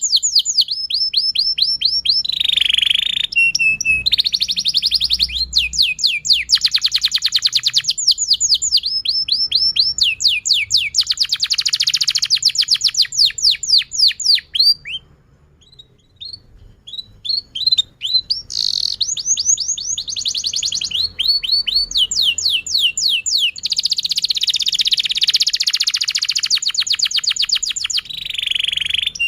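Domestic canary singing a long song of rapid trills, each a fast run of repeated notes, changing from one tour to the next. About halfway through it drops to a few scattered chirps for a couple of seconds, then goes back into fast trills.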